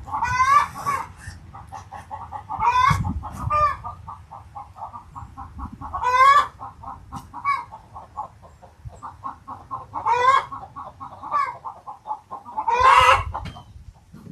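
Chickens clucking in a steady fast patter, with a loud squawking call about every three to four seconds, the last near the end being the longest.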